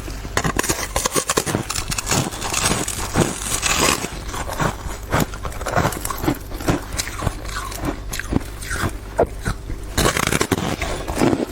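Ice being bitten and chewed close to the microphone: a dense run of crisp crunches and cracks, several a second, over a steady low hum.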